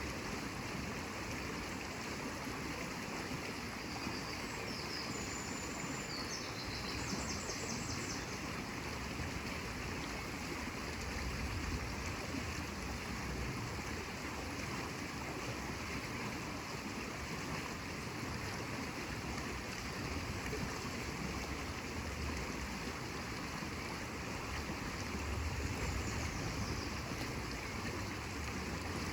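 Steady rushing of flowing water from a stream, with a few faint, short high chirps about five seconds in and again near the end.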